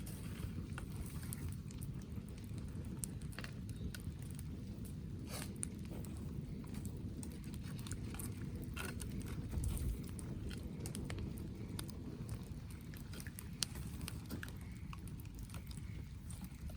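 Scattered sharp crackles and ticks over a steady low rumble.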